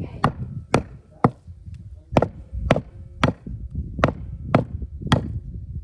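Butcher's cleaver chopping goat meat: about nine sharp chops, roughly two a second.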